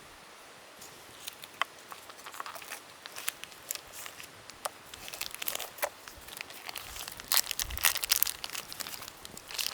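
Crinkling and rustling of wrapping being handled during camp cooking prep, with irregular sharp clicks that grow denser near the end and a dull thump about eight seconds in.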